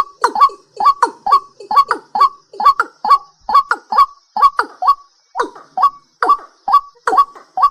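A night bird calling a rapid series of short, harsh, honking notes, about two a second, each sliding quickly downward in pitch, with a brief pause about five seconds in. A faint steady high hiss runs underneath.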